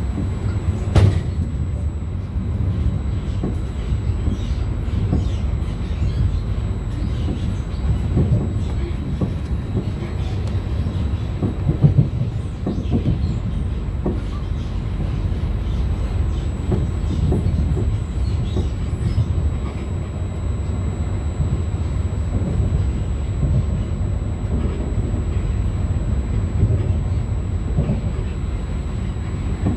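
Trenitalia regional double-decker train in motion, heard from inside the passenger coach: a steady low rumble with frequent short knocks from the wheels on the track, two of them louder, about a second in and about twelve seconds in.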